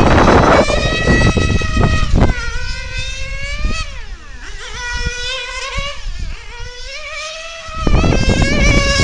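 1/8-scale nitro RC car's Novarossi 9-port glow engine running at high revs around a track, its high-pitched whine rising in pitch on the straights and falling off as it slows for corners. It is loudest when the car passes close, at the start and again from about eight seconds in.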